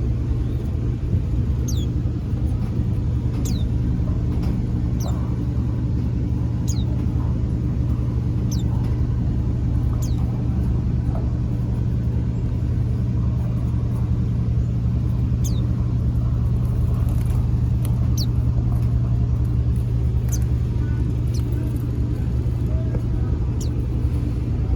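Short, high chirps that fall in pitch, repeated every second or two: small white-eyes (pleci) calling. Beneath them runs a steady low motor hum.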